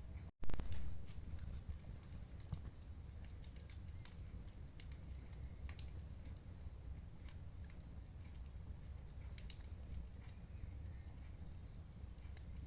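Wood fire in a fireplace crackling, with scattered sharp pops over a low steady rumble. Just after the start the sound cuts out for a split second and comes back with its loudest crackle.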